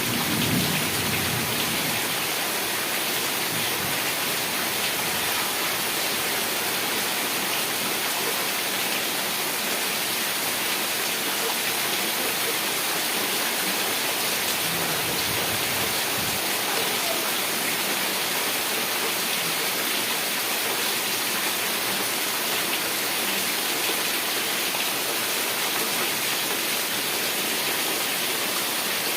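Heavy rain falling steadily, with the tail of a thunder rumble dying away in the first second.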